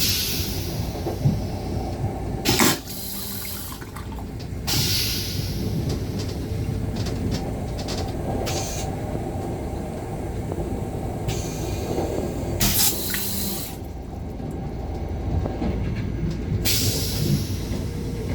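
Metro-North M7 railcar running, a steady low rumble heard from inside its restroom, broken by about six short bursts of hiss, some fading away over a second or so.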